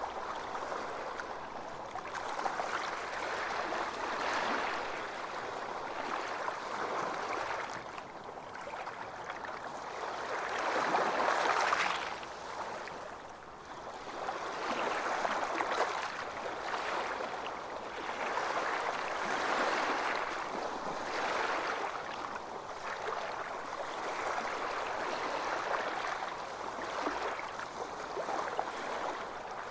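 Sea waves breaking and washing on a beach, the surf swelling and easing every few seconds, with one stronger break about eleven seconds in.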